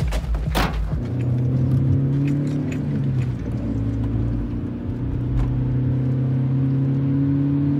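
Two sharp knocks at the start, then a vehicle engine drones steadily under way, heard from inside the cabin. Its pitch dips for a stretch midway and comes back up.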